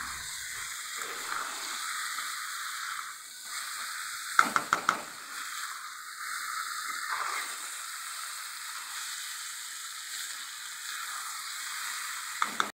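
Peeled boiled eggs and cauliflower sizzling steadily in a mustard-oil masala in a kadai while a steel spatula stirs them. A few sharp clinks of the spatula against the pan come about four and a half seconds in, and twice more near the end.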